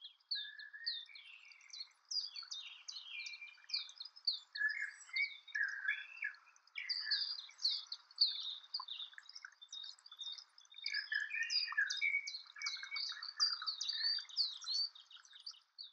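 Several songbirds chirping and singing at once in quick, overlapping high phrases.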